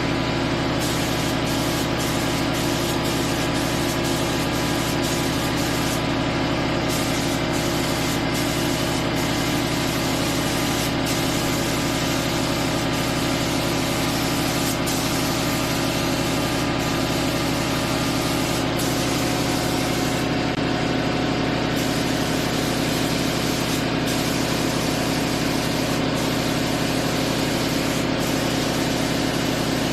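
A motor running steadily at one constant pitch, with an even hum.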